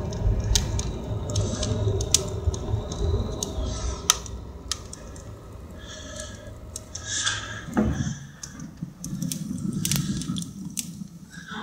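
Wood fire burning in a fireplace: a low draught rumble that fades over the first few seconds, with irregular crackles and pops throughout. A single knock comes about eight seconds in.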